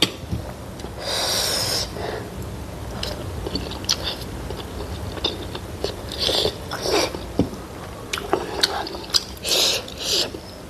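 Close-up mouth sounds of a person eating chicken momo with chutney: irregular chewing and smacking, with a few louder noisy bursts, the longest about a second in, and small sharp clicks.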